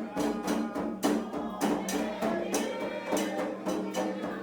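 Candomblé ritual music for Xangô: percussion strikes about twice a second in a steady rhythm, over sustained pitched voices or instruments.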